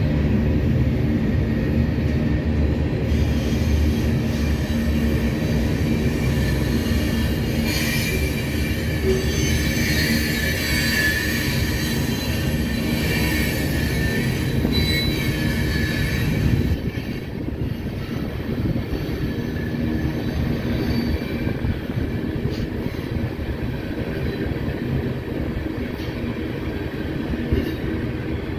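Herzog ballast hopper cars of a freight train rolling past with a steady rumble. High wheel squeal rises over it in the middle stretch and dies away about two thirds through.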